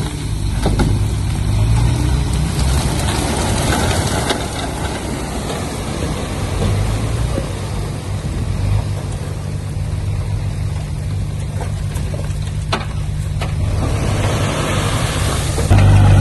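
Diesel engine of heavy earthmoving machinery running steadily, with a few sharp clanks. It gets louder near the end.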